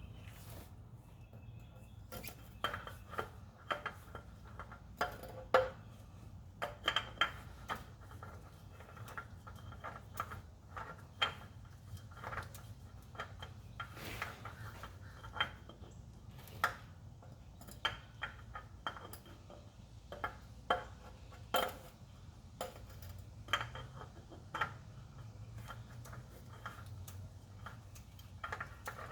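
Irregular light metallic clinks and taps as a new spin-on oil filter is handled and threaded on by hand, over a low steady hum.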